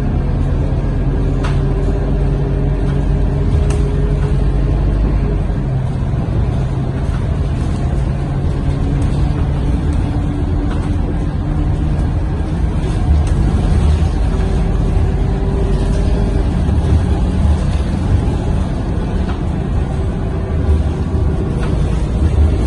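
Scania K230UB bus's diesel engine running under way, heard from inside the passenger cabin, its tone shifting up and down as it pulls and eases off over a steady road rumble. A few light clicks sound early on.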